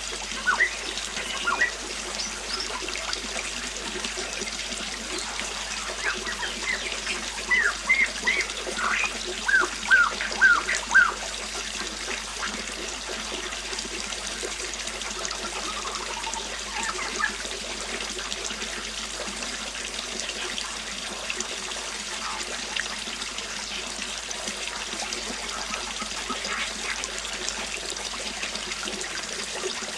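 River water flowing steadily, with small birds chirping over it: a quick run of short chirps about a third of the way in, and a few scattered chirps later.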